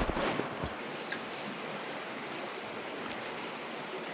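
Stream water rushing steadily, with a few low knocks in the first second and a click about a second in.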